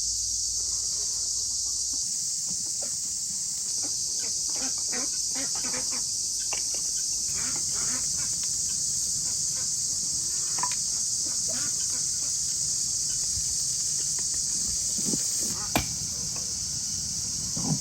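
Steady high-pitched chorus of insects, with scattered small clicks and knocks in the middle stretch and a sharp click near the end.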